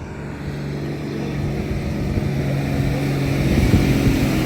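A motor vehicle engine running at a steady pitch, growing steadily louder.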